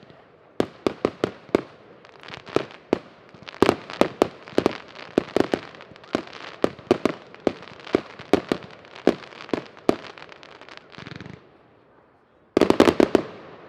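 New Year's fireworks: many sharp bangs going off at irregular spacing, growing denser in the middle. A short hiss comes about eleven seconds in, then after a brief lull a rapid string of loud cracks near the end.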